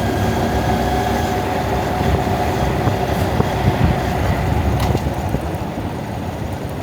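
Honda Monkey motorcycle's single-cylinder four-stroke engine running while riding slowly through traffic, with heavy wind rumble on the camera's built-in microphone. It eases off slightly in the second half.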